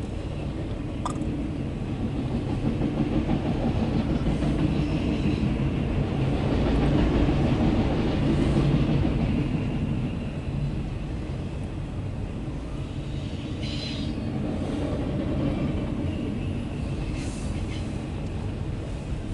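Loaded autorack freight train rolling past on the rails: a steady rumble of wheels and cars that swells for several seconds in the middle. A few brief high-pitched squeaks come through, mostly near the end.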